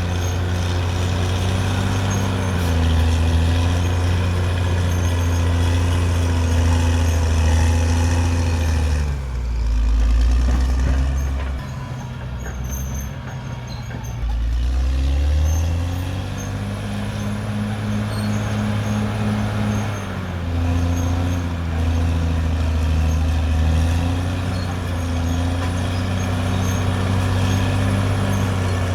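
Caterpillar D6R XL bulldozer's diesel engine working steadily under load, its pitch shifting up and down. About nine seconds in the engine speed drops low for several seconds, then revs back up.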